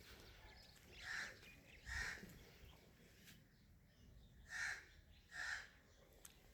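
A bird calling four times, faintly, in two pairs of calls a little under a second apart, over quiet outdoor background.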